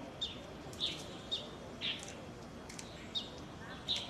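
A small bird chirping repeatedly: short, high single chirps at an uneven pace of roughly two a second, over steady outdoor background noise.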